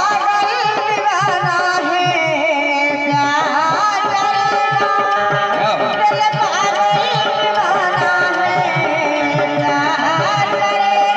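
Indian folk music: a wavering, heavily ornamented melody over a steady held drone, with a hand-drum beat.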